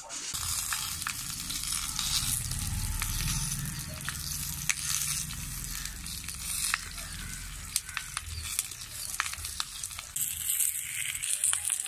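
Banana-leaf-wrapped fish parcels sizzling on a dry, oil-free hot iron pan over a wood fire, with scattered pops and crackles. The sizzle grows louder and brighter about ten seconds in, as more parcels go onto the pan.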